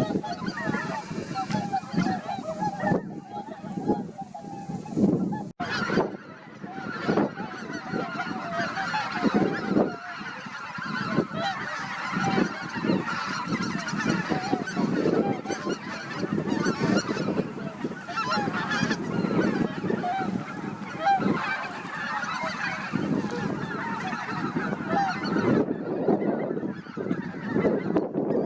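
A large flock of greater white-fronted geese calling, many overlapping honking calls at once in a continuous clamour.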